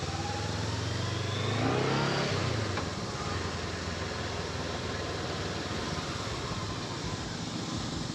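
Motorcycle engine running under a steady hiss of wind and road noise, its note rising and swelling briefly about two seconds in.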